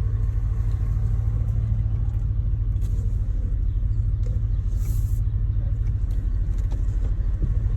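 Chevrolet Silverado pickup's engine running at a steady idle, a low even rumble with rapid regular pulsing.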